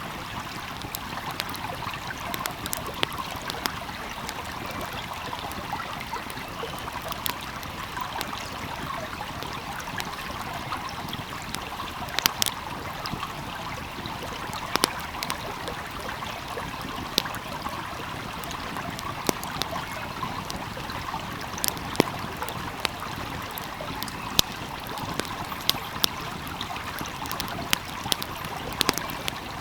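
Flowing stream making a steady rushing and trickling, with a wood fire giving scattered sharp crackles and pops every second or few.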